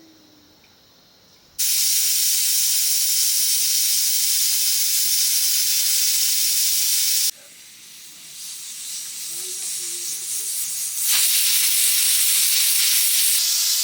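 Loud, steady sizzling hiss from food cooking in a hot pan. It starts suddenly, drops out for a few seconds partway through, then builds back up and jumps up again.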